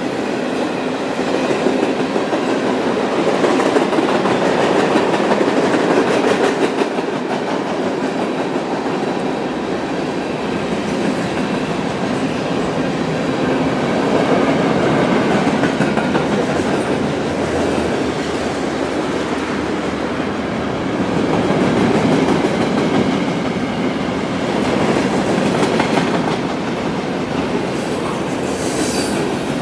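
Train rolling by on steel rails, a steady rumble of wheels and cars that swells and eases, with a faint high wheel squeal starting near the end.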